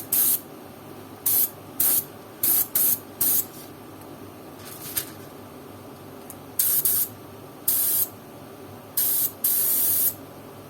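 HVLP spray gun with a 0.7 mm nozzle spraying leather paint in about ten short hissing bursts, one near the end longer than the rest. The painter judges it is putting out too much material and the air pressure is too high.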